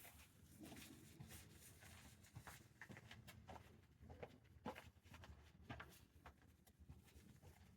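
Near silence with faint, irregular small taps and scuffs, several a second, over a low hum of room tone.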